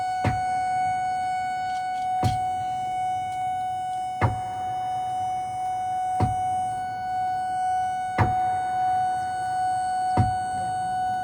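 Modular synthesizer music: a steady, held drone tone with a sharp percussive hit repeating about every two seconds.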